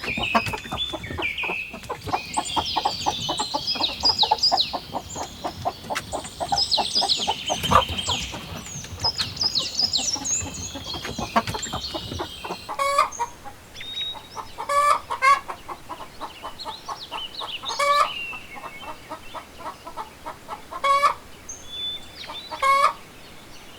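Chickens clucking and calling: a busy stretch of many short high chirps and quick clucks for about the first half, then single clucks spaced a second or so apart.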